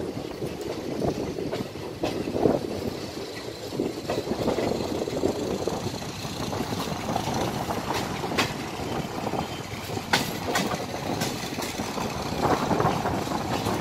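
Indian Railways passenger coaches running on the track: a steady wheel-on-rail rumble and rattle with clickety-clack. A few sharp clicks stand out in the second half.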